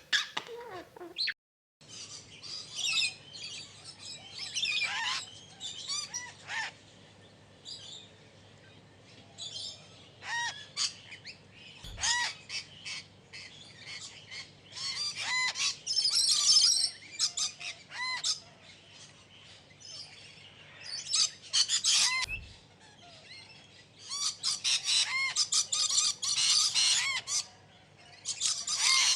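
Pet parrots chirping and squawking in bursts of sharp, high calls and chatter, with a brief gap about two seconds in.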